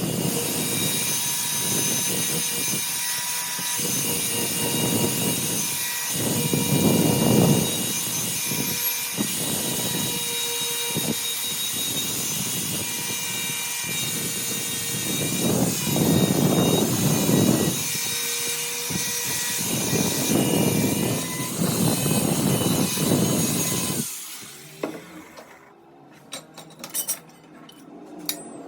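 Angle grinder running at speed with a steady high whine, its note dipping into a rougher rasp several times as the disc bears on the steel of a circular saw blade. It winds down and stops about 24 seconds in, leaving a few light clicks and knocks.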